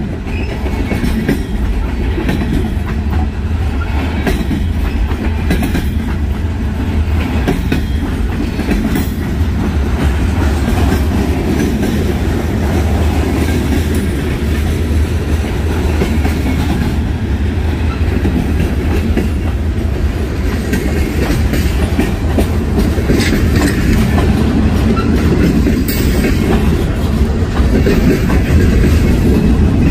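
A CSX mixed freight train rolling past with a steady low rumble and its wheels clacking over the rail joints, growing a little louder near the end.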